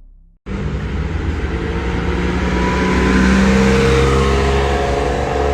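A sports car's engine running loud, growing louder to a peak about three seconds in and then easing slightly, starting abruptly half a second in as intro music fades away.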